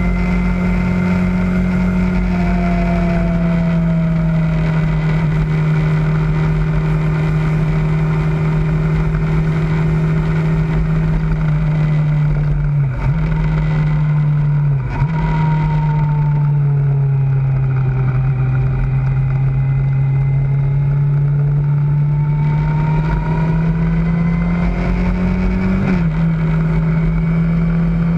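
Kawasaki ZZR600's inline-four engine running steadily on the road. The engine note breaks briefly a few times as gears change: twice about halfway through and again near the end. Between the changes the revs dip lower and then slowly climb.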